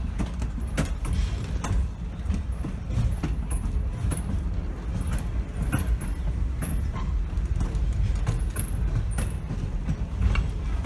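Train moving along the track: a steady low rumble with scattered irregular clicks and knocks.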